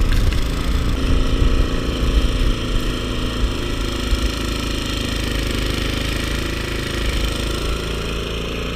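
Self-propelled gas snowblower engine running steadily under load while throwing snow, with gusts of wind rumbling on the microphone.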